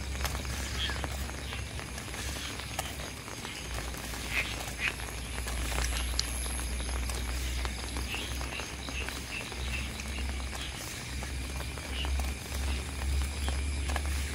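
Steady rain falling, with scattered short high chirps and ticks over it and a low rumble underneath that comes and goes.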